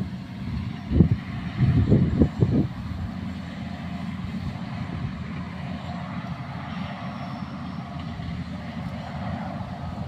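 Strong wind buffeting the microphone in gusts, loudest about a second in and again around two seconds, over a steady low rumble.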